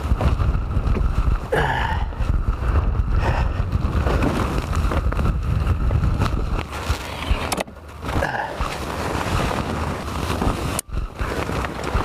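Blizzard wind buffeting the microphone: a heavy, dense low rumble that briefly drops away twice in the second half.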